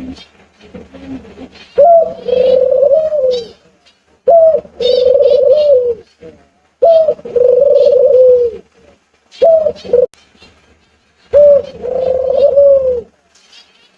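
A dove cooing five times, each coo a short rising note followed by a longer held note, about every two and a half seconds. Faint high chirps from smaller birds come in between.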